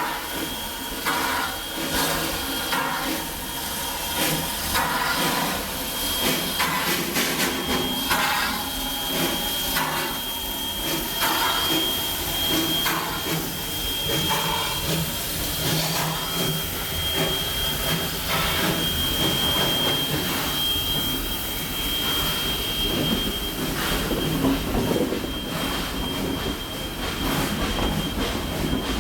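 Two steam locomotives working hard on a heavy string of cars in switching service, with chuffing and hissing steam. Through the middle, from about 8 to 24 seconds in, a thin, high, steady squeal runs over it, as steel wheels squeal on the rails.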